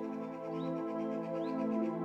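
Soft ambient new-age music of sustained held tones, with short rising bird chirps about once a second.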